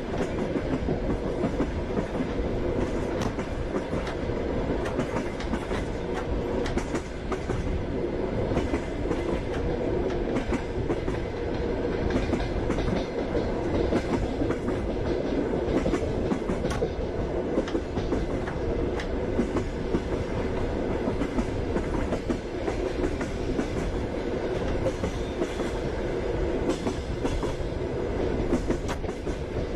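Passenger train running, heard from inside a carriage: a steady rumble with the clatter of the wheels over the rail joints.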